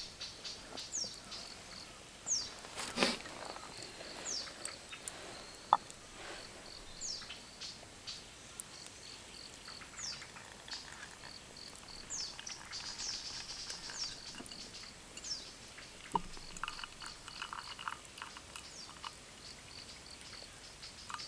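Birds calling in short, high notes that drop steeply in pitch, repeated every second or two, over a steady pulsing insect chirp. There are scattered sharp clicks, the loudest about six seconds in.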